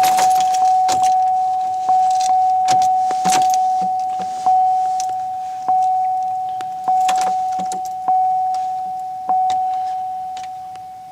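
Car's warning chime dinging over and over on one pitch, each ding fading before the next; a few quick dings, then about one every second and a bit. Keys jangle and rattle a few times underneath.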